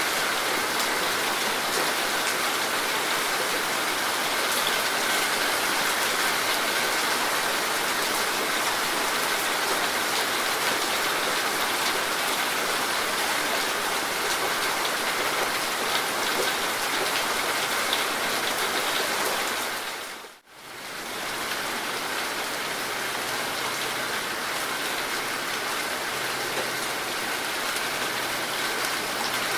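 Rain falling steadily, a dense even patter of drops. About two-thirds of the way in, the sound fades briefly almost to silence and then returns.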